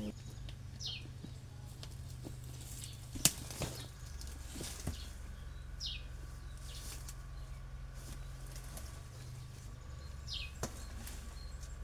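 A bird's short, high, falling chirp, repeated three times about five seconds apart, with a few sharp knocks and clicks, the loudest about three seconds in, over a low steady hum.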